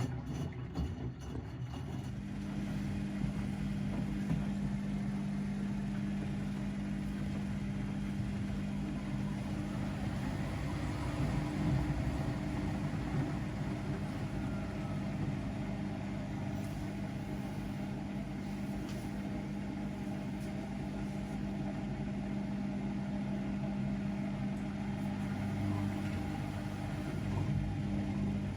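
Domestic laundry machine running: a steady motor hum with a drum turning, its hum tone setting in about two seconds in and holding level.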